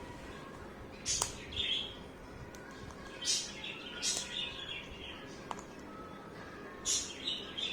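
Alexandrine parakeet giving short, high chirps, about six of them in loose pairs spread over several seconds, with a couple of faint sharp clicks in between.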